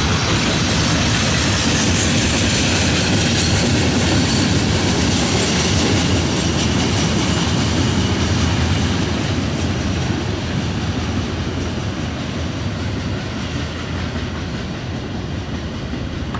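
Freight train's flatcars, loaded with steel coils, rolling past with wheels running on the rails in a steady loud rumble. From about halfway through the sound fades as the end of the train pulls away.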